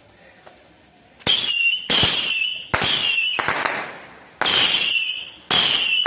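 A firework going off: after about a second of quiet, five sharp bursts in quick, uneven succession, each with a hissing tail that fades within about half a second.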